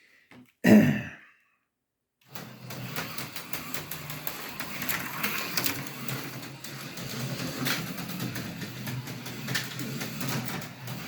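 An AFX HO slot car starting off and running laps around a plastic track, from about two seconds in: a steady small electric motor whirr with a rattle of quick clicks as the car runs over the track sections.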